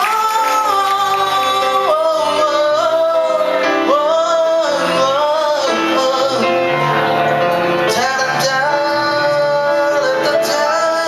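Male voice singing long held, sliding notes without clear words over guitar accompaniment.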